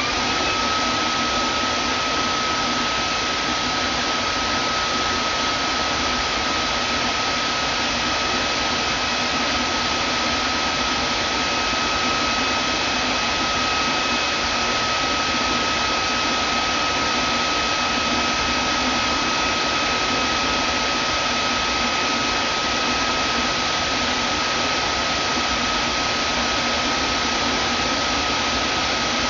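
Vacuum cleaner running steadily, a rushing air noise with a constant high motor whine.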